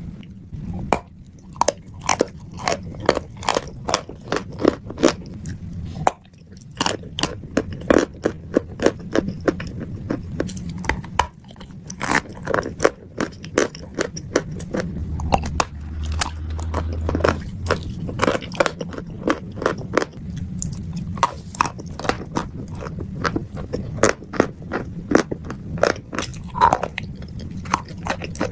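Chalk crunching, the sharp crunches coming in quick, irregular succession, a few a second.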